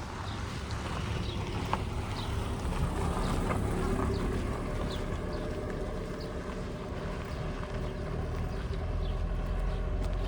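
A motor vehicle's engine running close by, a steady low rumble with a held hum, while small birds chirp briefly every second or so.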